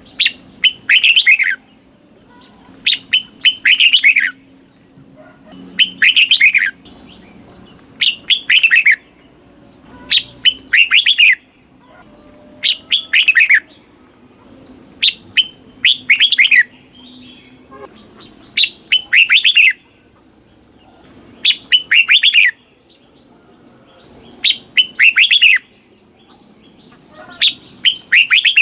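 Red-whiskered bulbul singing: loud short phrases of quick, falling whistled notes, repeated every two to three seconds.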